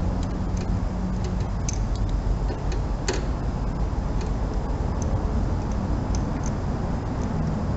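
Scattered light metallic clicks and taps of hand tools working a spark plug socket, irregularly spaced, with a sharper click about three seconds in. A steady low rumble runs underneath.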